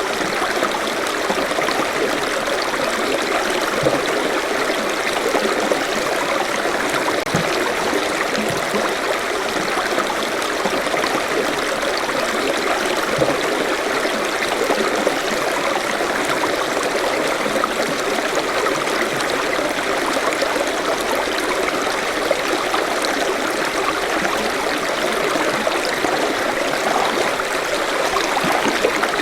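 Forest stream flowing steadily over rocks, a continuous rushing babble with small splashes and gurgles.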